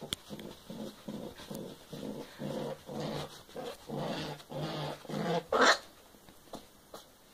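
Domestic rabbit growling: a quick run of short, low grunting growls, about two to three a second, ending with a louder, sharper one about five and a half seconds in. It is the angry warning of a rabbit ready to lunge or bite.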